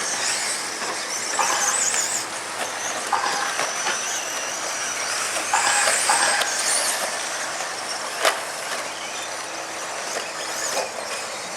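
Radio-controlled stadium trucks racing round the track, their motors whining high and rising and falling in pitch as they speed up and slow down. There is one sharp knock about eight seconds in.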